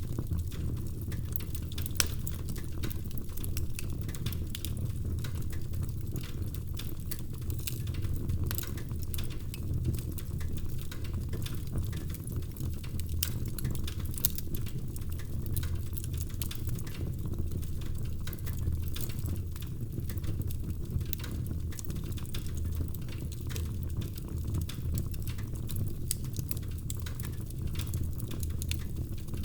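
Fire crackling in a fireplace: a steady low rumble of the flames with a constant scatter of sharp pops and crackles. A louder pop comes about two seconds in and another near the middle.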